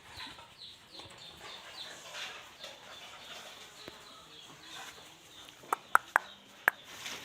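Birds chirping in short, falling high calls, about three a second. About six seconds in come a few sharp, loud clicks.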